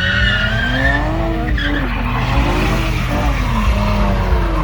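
Car engine revving up and falling back again and again over the hiss of skidding tyres, with a high tyre squeal dying away in the first second.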